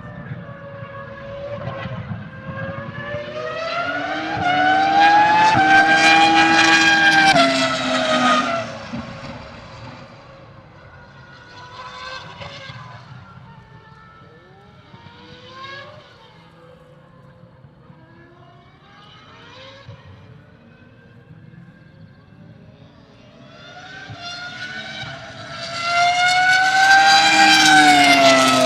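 Renault R25 Formula 1 car's 3.0-litre V10 at full throttle, its pitch climbing through the gears as it draws near and passes, then dropping away. The engine stays faint in the distance for a long stretch, rising and falling in pitch, and swells to full loudness again near the end as the car comes back past.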